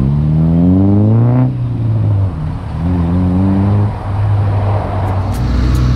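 Car engine accelerating: its note climbs for about a second and a half, drops off as if at a gear change, and climbs again around three seconds in before settling into a steady low drone.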